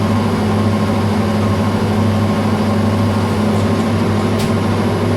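Metal lathe running steadily under power while turning a steel screw blank, with an even motor and gear hum.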